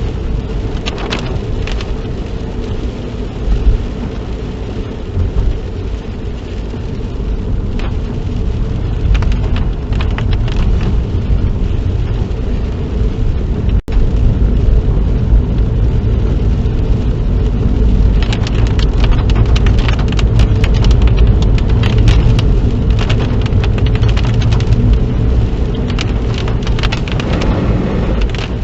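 Inside a car being driven in the rain: a steady low engine and road rumble, with rain crackling on the bodywork and windscreen, thicker in the second half. The sound cuts out for an instant about halfway.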